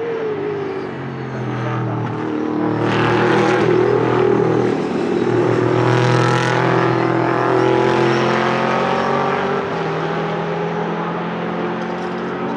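Chevrolet LS3 6.2-litre V8 engine running, its revs and loudness climbing from about three seconds in and easing back in the second half.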